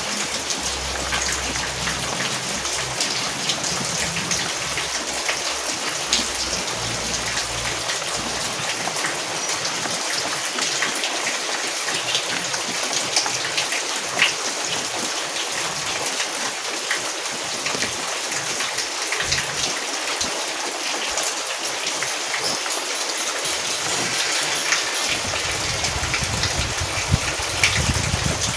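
Steady rain falling, a dense patter of drops on a surface. A low rumble sits under it at the start and comes back near the end.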